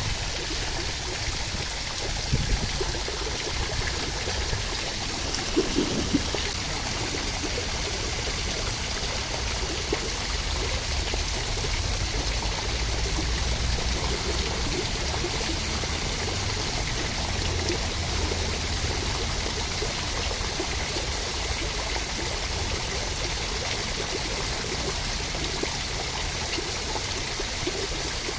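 Steady rain, an even rushing hiss with a low rumble underneath and a few brief louder knocks about two and six seconds in.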